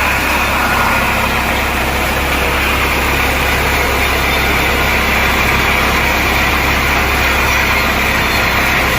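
Sawmill machinery running steadily: a loud, even engine-like drone with a constant low hum and a high whine.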